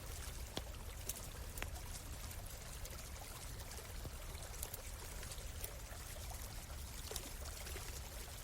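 A small stream flowing and trickling steadily, with scattered faint crackles from a campfire.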